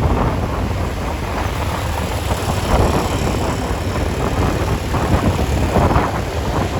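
Traffic noise with wind buffeting the microphone: a steady low rumble and rushing hiss of vehicles and engines.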